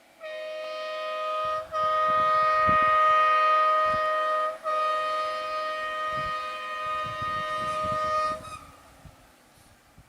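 A vehicle's multi-tone horn sounding in three long held blasts: a shorter first blast, then two longer, louder ones. Irregular low rumbling runs underneath.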